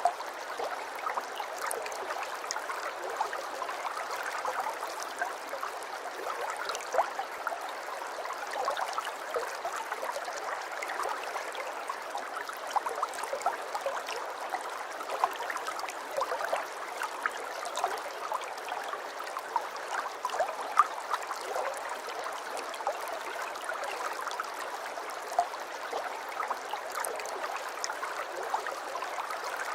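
Aquarium water trickling and bubbling steadily, with many small pops and splashes over a continuous rush of water.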